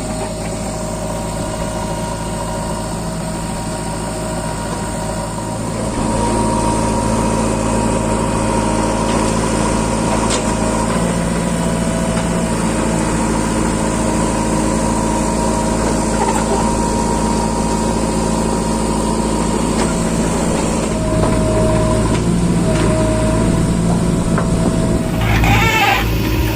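Heavy diesel engine of earthmoving machinery running steadily, working harder and louder from about six seconds in and again near the end.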